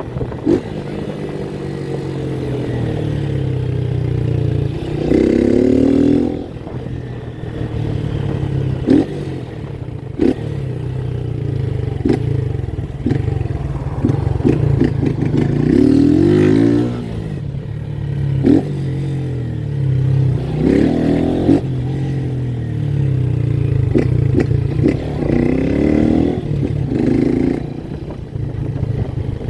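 Motorcycle engine running with several short revving bursts, plus a few sharp clicks or clatter between them.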